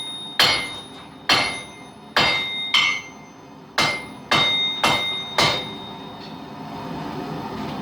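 Hammer blows on a ringing anvil during forging: about eight strikes in the first five and a half seconds, each leaving a clear ring. The hammering then stops, and a steady rushing noise rises near the end.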